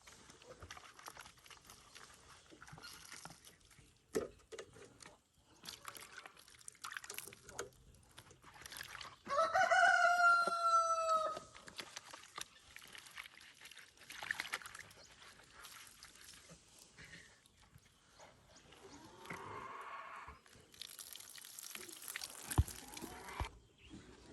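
A rooster crows once, loudly, about nine seconds in, a call of about two seconds falling slightly at the end. Around it are quieter splashing, rushing water and knocks as a chicken drinker is rinsed out.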